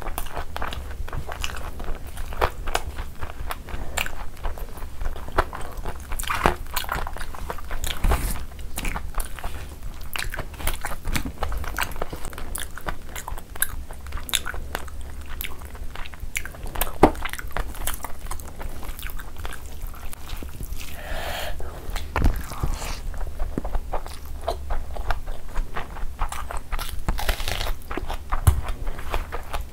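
Close-miked eating: wet chewing and lip smacking of rice and curry mixed and eaten by hand, with many short crunchy clicks throughout. Near the end comes a crunchy bite into a whole raw onion.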